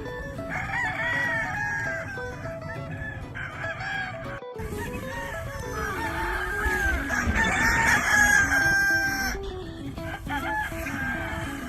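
Roosters crowing, one crow about half a second in and a longer, louder one in the second half, over background music. Clucking in between.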